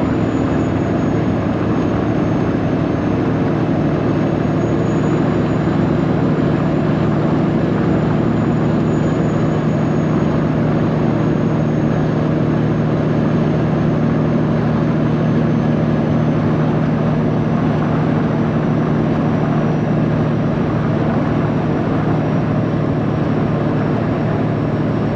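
Straight-piped Peterbilt 389 semi truck's diesel engine and exhaust running steadily at an even pitch, as when cruising, heard from inside the cab.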